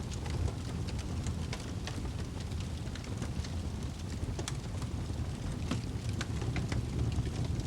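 Wood fire crackling in a fireplace: a steady low rumble of flames with frequent small sharp pops and snaps scattered throughout.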